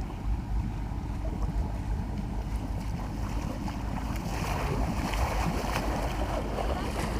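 A Nissan Patrol engine in a UAZ running low and steady in deep water, with water churning and splashing around the vehicle, the splashing growing from about halfway through.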